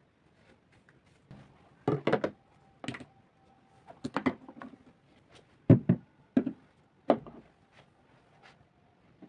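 Things being handled and set down: a run of thunks, knocks and light clicks, the loudest near the middle.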